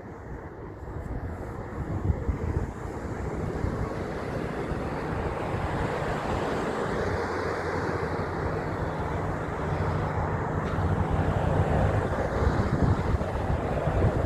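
Highway traffic, with a heavy truck's engine and tyre noise growing steadily louder as it approaches.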